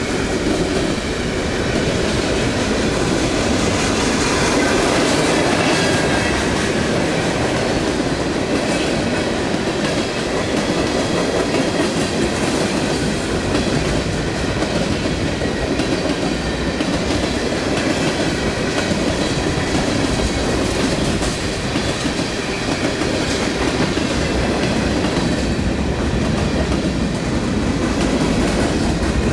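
Train cars rolling past on the rails: a steady, loud run of wheel-on-rail noise with clickety-clack of the wheels over rail joints, unbroken throughout.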